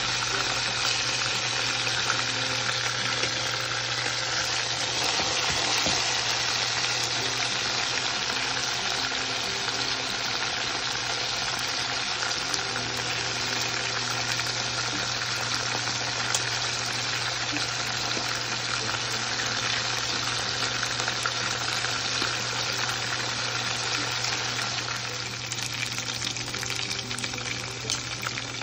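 Battered chicken pieces (karaage) frying in a pan of hot oil: a steady, dense sizzle with fine crackling, easing slightly near the end.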